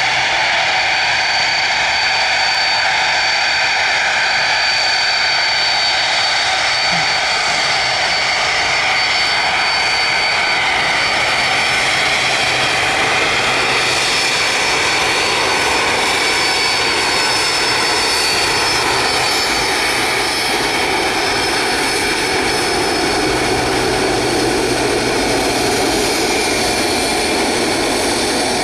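Jet aircraft engine running steadily at close range: a continuous loud rush with several high whining tones held level, the lower part of the sound growing a little stronger about two-thirds of the way through.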